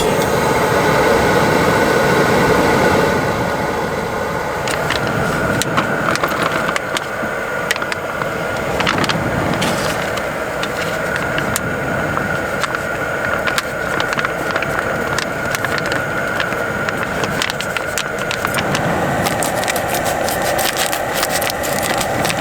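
Stir-fried food sizzling in a pan, with a steady hiss and many sharp crackling pops that come thicker in the second half.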